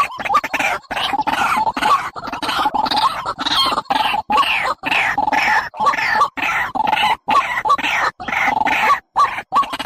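Recorded bird calls played as a trapping lure: loud, rapidly repeated harsh notes with falling sweeps, chopped by frequent abrupt short gaps as in a looped recording.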